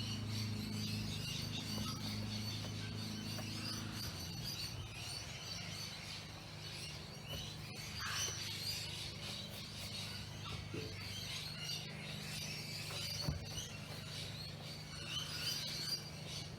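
Birds chirping on and off, over a steady low hum.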